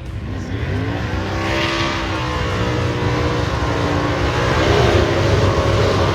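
Drag race car engine running hard, its pitch climbing over the first second and then holding, over a heavy low rumble that grows louder.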